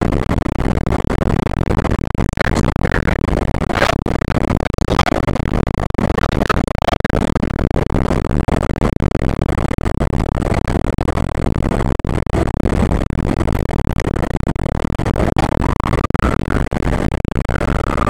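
Fire engine running under way, its engine and road noise loud and steady inside the cab. A siren sounds over it in short swoops early on, then one long wail rising and starting to fall near the end.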